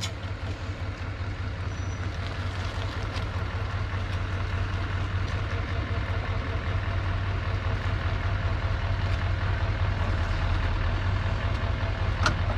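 Truck engine idling with a steady low hum that grows slightly louder, and one sharp click near the end.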